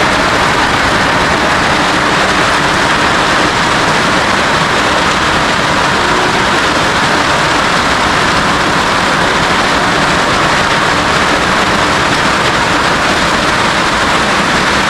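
Heavy rain falling on a roof: a loud, steady rush of noise that holds without a break.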